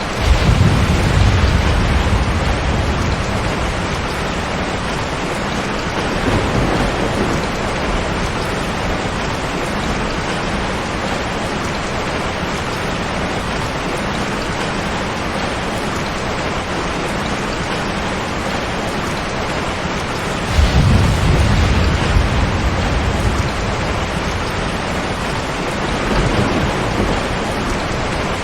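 Steady heavy rain with low rolls of thunder: one starts just after the opening and fades over a few seconds, another comes about twenty seconds in, and fainter rumbles come in between.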